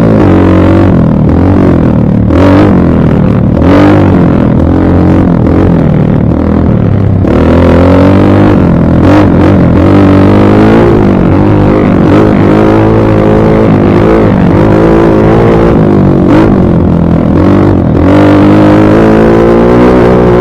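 Dirt bike engine revving while being ridden, loud, its pitch repeatedly climbing and dropping as the throttle opens and closes.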